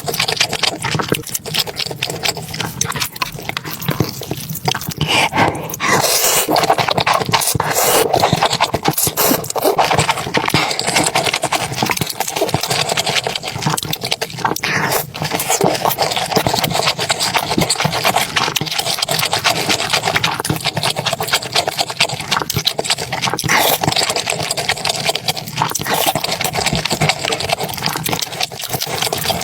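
Close-up eating sounds: continuous, irregular crunching, chewing and smacking noises of food being eaten.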